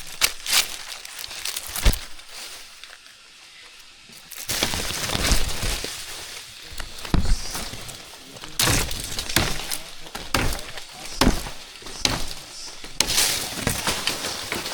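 Irregular sharp cracks and snaps with rustling in between, like brittle material breaking, quieter for a couple of seconds before picking up again.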